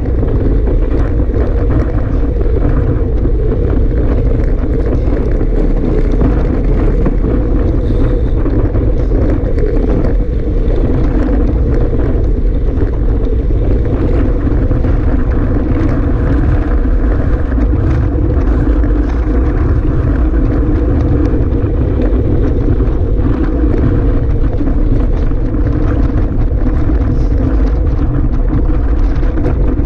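Strong wind buffeting the microphone in a loud, steady rumble, with a steady low drone underneath.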